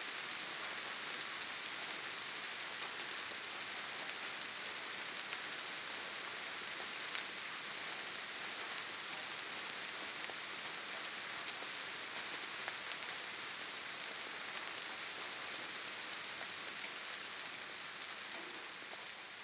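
Steady rain falling, an even hiss with a few faint sharp drop ticks.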